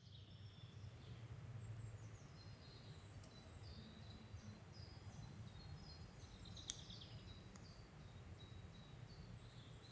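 Faint outdoor ambience: a steady low rumble with small birds chirping high and thin throughout, and one sharp click about two-thirds of the way in.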